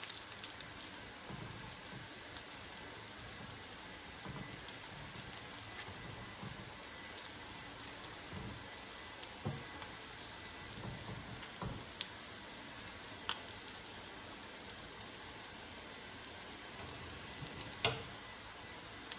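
Imitation crab sticks sizzling quietly in a frying pan, a steady hiss with scattered light clicks of tongs against the pan as the sticks are turned, and one sharper clack near the end.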